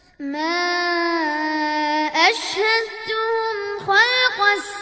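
A child reciting the Quran in melodic chant, holding one long steady note after a brief pause, then taking a breath about two seconds in and going on in gliding melodic phrases.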